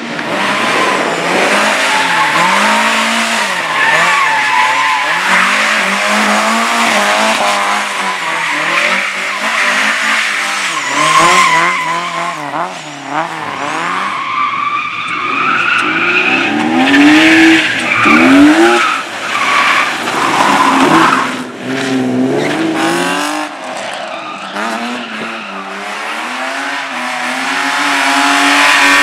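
A car driven hard through a slalom course, its engine revving up and dropping back over and over as the driver accelerates and brakes, with tyres squealing through the turns.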